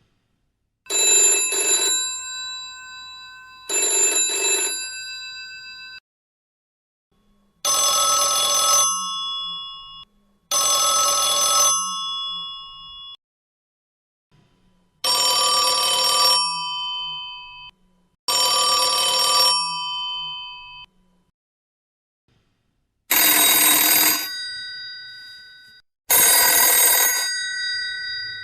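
Old telephone bells ringing: eight rings of a second or two each, grouped in four pairs, every ring fading out with a lingering bell tone. Each pair has its own pitch, as from four different early telephone ringers one after another.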